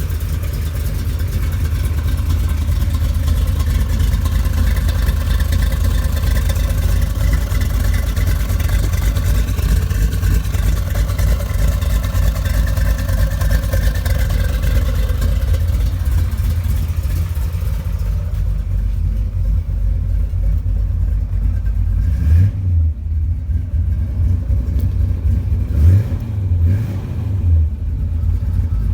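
Chevy 383 stroker small-block V8 with aluminium heads running at a steady idle, deep and lumpy. Short rises in engine speed come about 22 and 26 seconds in.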